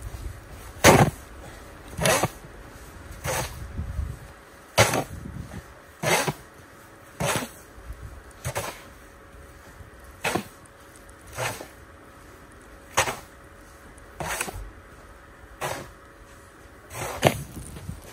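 Slow, regular crunches in knee-deep snow, about one every second and a half.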